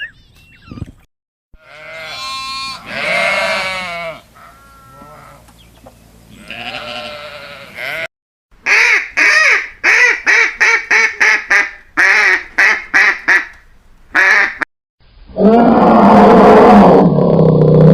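A string of different animal calls, cut one after another. First a drawn-out call, then another, then a quick run of about a dozen short, evenly repeated calls, then one long, loud, lower call near the end.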